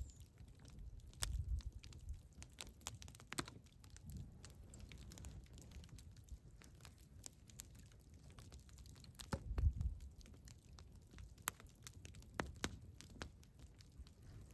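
Campfire crackling faintly with scattered sharp pops, and two brief low rumbles, about a second in and again near ten seconds in.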